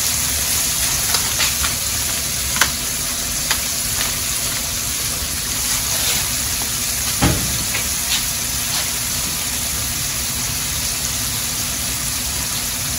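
Sea scallops searing in hot oil in a frying pan, browning on their second side after being flipped: a steady sizzle with occasional sharp pops and crackles.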